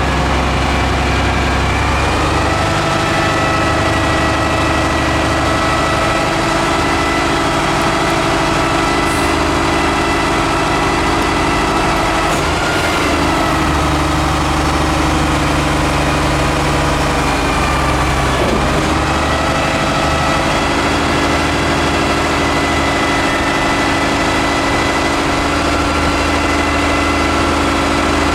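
Peterbilt 310 garbage truck's diesel engine running steadily, with its pitch shifting slightly a few times.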